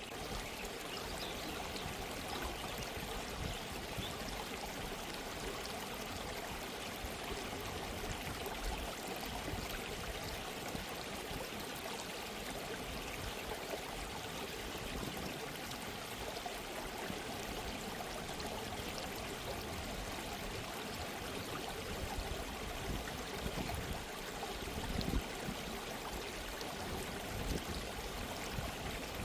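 Gently running stream water, a steady babbling and trickling.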